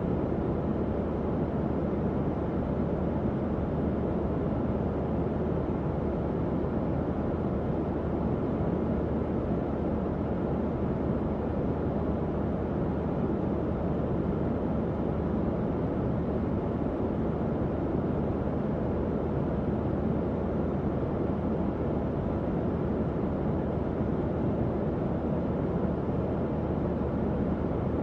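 Tower fan running at a steady speed: an even, low-pitched airy whoosh with no changes.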